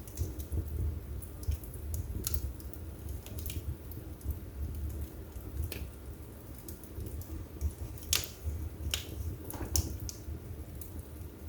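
Wood fire burning in a fireplace: a steady low rumble of flames with irregular sharp crackles and pops, several louder ones about eight to ten seconds in.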